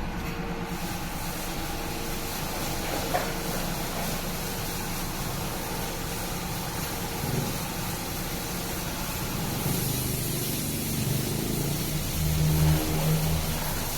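Single-arm touchless car wash machine running: a steady machine hum with water spraying, the spray hiss growing stronger about ten seconds in.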